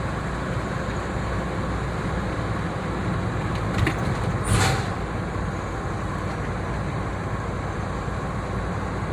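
Steady low rumble of a truck heard from inside the cab, with a short click a little under four seconds in and a brief whoosh just after it.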